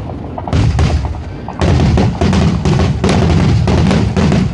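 A rapid, dense volley of firework bangs and cracks. The booms come irregularly several times a second, with a heavy low rumble, as in a fireworks finale barrage.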